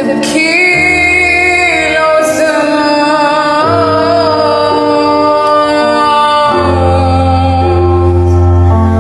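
Song with a solo voice singing long, wavering held notes over instrumental backing with a bass line that changes note every second or two.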